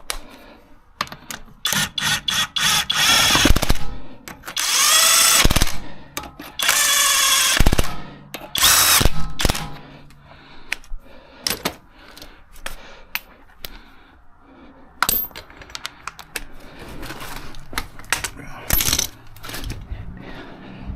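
Impact wrench run in several short bursts of one to two seconds, bunched in the first half, with scattered clicks and clanks of tools between them and one more short burst near the end.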